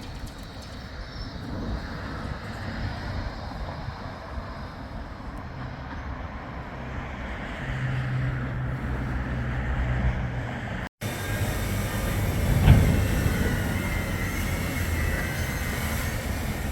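Bombardier Flexity 2 light rail tram running on its track: a steady rumble of wheels on rail with a low motor hum in the middle. After a brief break in the sound there is a single knock, then faint high wheel squeal.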